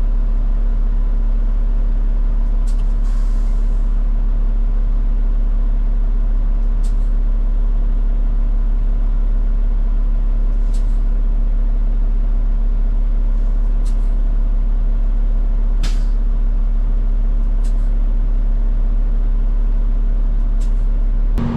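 Peterbilt 589 dump truck's diesel engine running at a steady idle: a deep, even rumble with a constant hum above it, and a few short hisses now and then.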